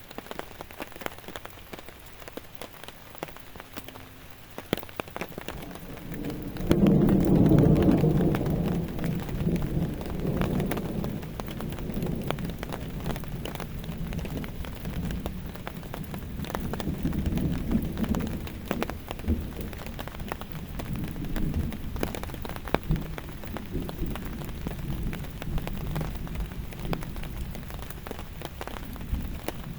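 Steady rain with many individual drops ticking on a surface. About seven seconds in, a thunderclap breaks into a deep rumble that rolls and slowly fades for the rest of the time.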